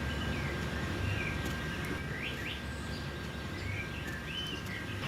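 Small birds chirping in short, scattered calls that glide up and down, over a steady low background rumble and a faint steady high tone.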